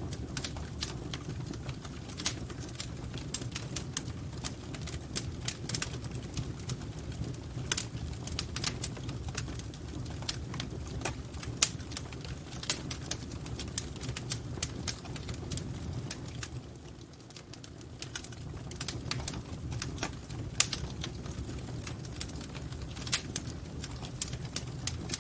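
Wood fire crackling in a fireplace: irregular sharp pops and snaps, a couple louder than the rest, over a steady low rumble of the flames.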